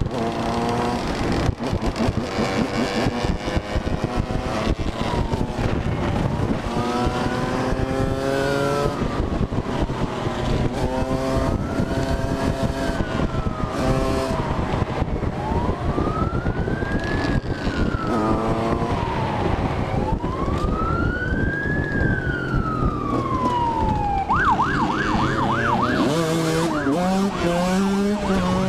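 Police siren in a slow wail, rising and falling about every four to five seconds, switching to a fast yelp near the end. Under it a motorcycle engine revs up through the gears again and again, with wind and road rush.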